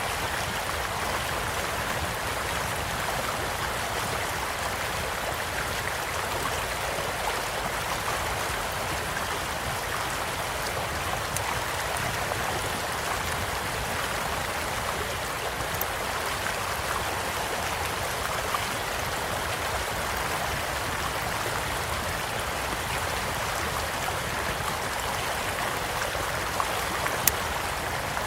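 Stream flowing with a steady rush, with a few sharp pops from a crackling wood campfire scattered through it. One pop near the end is the loudest.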